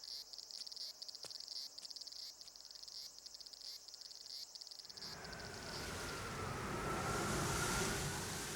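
Insects chirring in a fast pulsing rhythm, part of the anime's ambient soundtrack. About five seconds in, the chirring gives way to a steadily rising rushing hiss with a faint wavering whistle in it.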